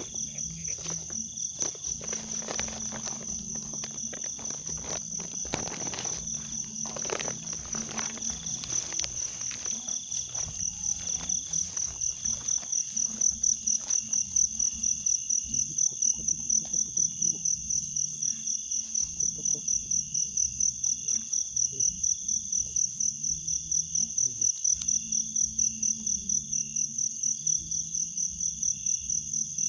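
Insects, cricket-like, chirring steadily at a high pitch, pulsing about three times a second. Rustling and light footstep clicks through grass during the first half.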